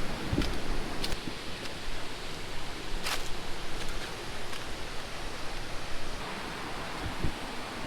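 Steady rushing of a waterfall's falling water, with a few light clicks and taps about half a second, one second and three seconds in.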